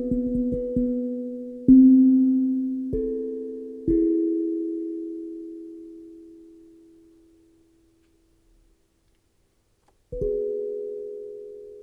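Steel tongue drum (ethereal drum) played by hand: a few quick struck notes, then single notes each left to ring out and slowly fade. The last one dies away to silence for about two seconds before new notes are struck near the end.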